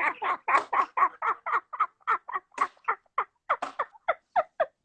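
Long, hearty fit of laughter, a rapid run of 'ha-ha' bursts at about four a second that keeps going without a break.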